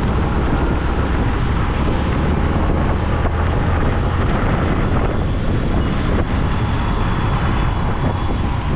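Wind rushing over the microphone while riding a motorcycle, mixed with the bike's engine and road noise, steady throughout.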